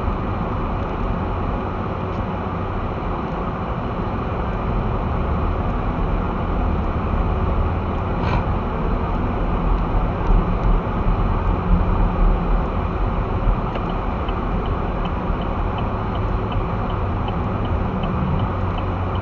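Steady road and engine noise inside a car's cabin as it drives slowly on snow-covered streets. Over the last few seconds a turn-signal indicator ticks evenly, about one and a half times a second, ahead of a left turn.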